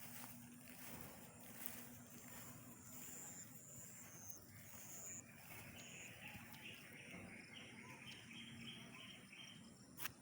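Faint outdoor background with thin, high-pitched chirping: a few short whistled notes, then a quick run of repeated chirps, about three a second, through the second half. A brief click comes near the end.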